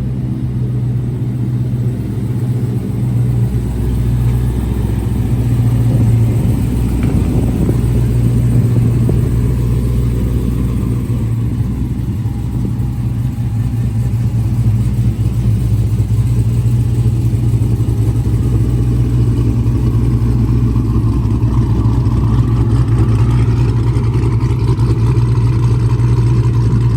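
Chrysler 300 SRT8's cammed 6.1 L Hemi V8 idling steadily after a cold start.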